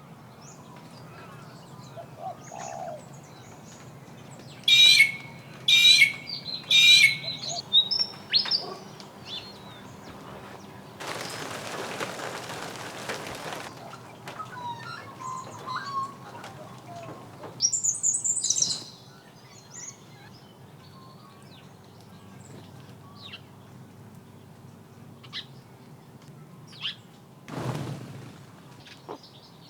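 Birds calling outdoors. There are three loud calls about a second apart around five to seven seconds in, a rushing noise lasting about two seconds in the middle, and another high call near eighteen seconds, with scattered fainter chirps throughout.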